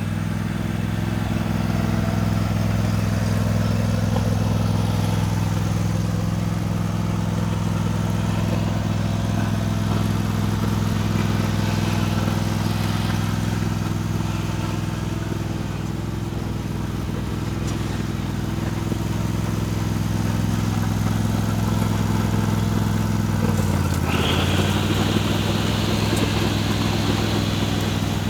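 John Deere D130 riding mower's V-twin engine running steadily during a test ride. Near the end the engine pitch dips briefly and recovers, and a higher rushing sound joins it.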